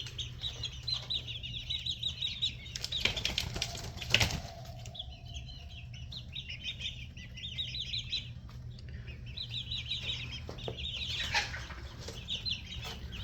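Six-week-old red junglefowl chicks peeping in quick high runs, with a burst of wing flapping about three to four seconds in.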